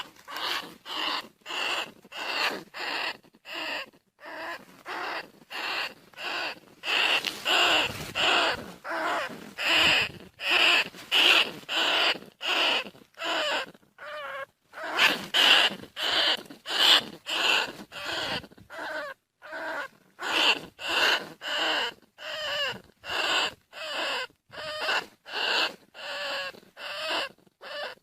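Bandicoot rat squeaking calls, short wavering squeaks repeated about two a second with a few brief pauses, played as a hunter's lure call.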